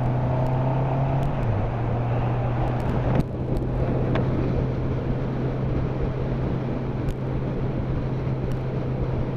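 Motorcycle engine running steadily under way at road speed, with wind and road noise over it. There is a brief dip in level about three seconds in.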